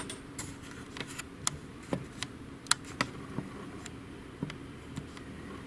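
Irregular light clicks and taps from handling the opened inkjet printer's plastic parts, about a dozen over a few seconds.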